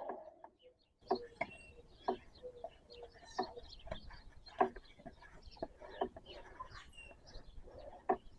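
Chickens clucking, with bird chirps in the background, over an irregular scatter of sharp clicks and knocks.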